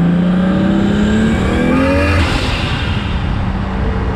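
Turbocharged 1JZ inline-six with a Tomei turbo, in a Lexus LS400, heard from inside the cabin pulling hard at half throttle. The engine note climbs for about two seconds, then breaks off into a noisier rush.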